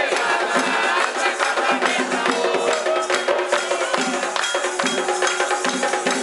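Candomblé ceremonial music: hand drums and sharp clicking percussion keep a steady rhythm under voices singing a chant.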